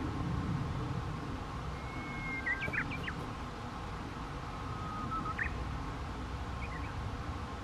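A few short whistled bird calls, mostly about two to three seconds in and again about five seconds in, over a steady low outdoor rumble.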